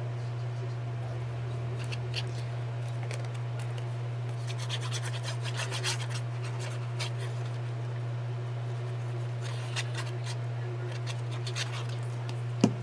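Paper crafting at a work table: scattered scratching and rubbing of paper and tools, over a steady low hum, with one sharp knock near the end.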